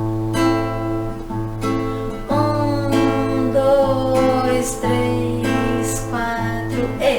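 Acoustic guitar strummed in a steady rhythm over a sustained bass note, playing a song's introduction.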